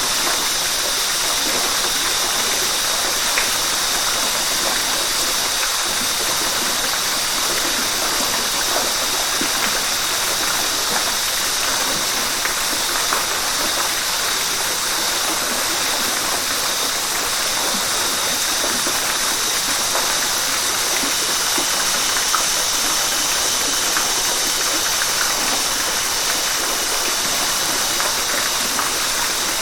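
River water rushing steadily, with faint small splashes now and then.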